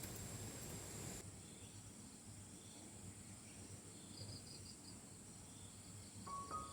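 Faint insect chirping in short repeated pulses over a quiet rural background, after a steady hiss cuts off about a second in. A gentle melody of stepped notes comes in near the end.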